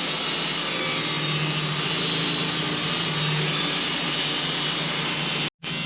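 Sawmill running and sawing through a hickory log: a steady engine hum under the hiss of the blade in the wood. The sound drops out completely for an instant near the end.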